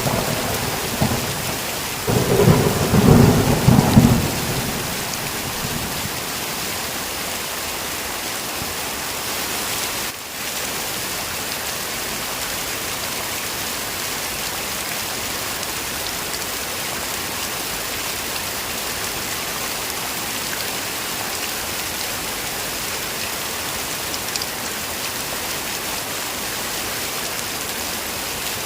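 Heavy rain falling in a steady hiss, with a rumble of thunder in the first few seconds that dies away by about four seconds in.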